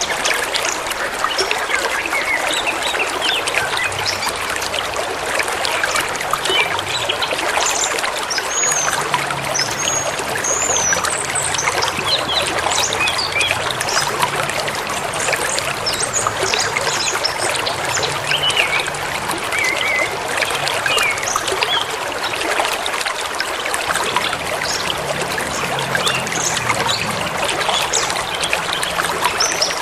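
River rushing steadily through a forest, with small birds chirping and giving short whistles over the water, a few at a time.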